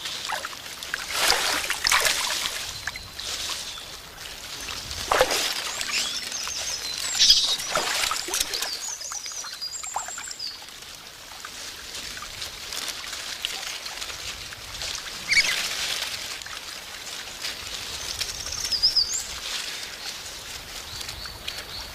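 Young Japanese macaques splashing in a stream, in irregular splashes over the water running steadily. Short high bird chirps come now and then, around the middle and again near the end.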